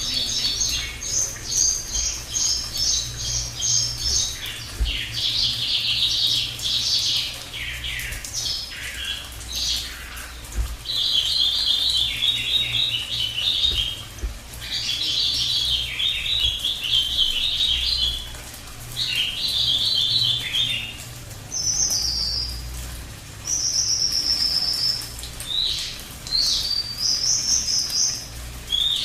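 Cililin song bird singing in dense, rapid-fire trilled phrases, one burst after another with only short gaps, and shorter high, clipped notes in the last few seconds.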